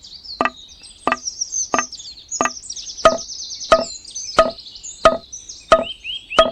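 A steady series of sharp knocks, about three every two seconds, each with a short ringing tone, over continuous high chirping like birdsong.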